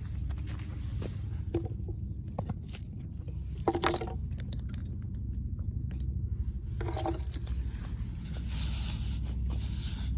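Wood fire burning in a small fire stand: scattered crackles and small knocks over a steady low rumble, with two short animal calls, about four and seven seconds in.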